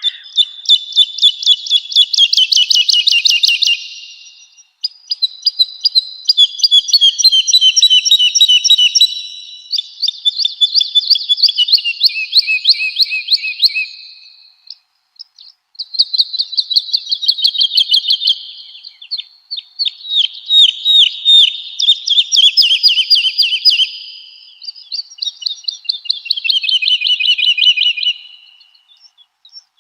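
Woodlark singing: about six fast trilled phrases of rapidly repeated notes, several of them stepping down in pitch, separated by short pauses.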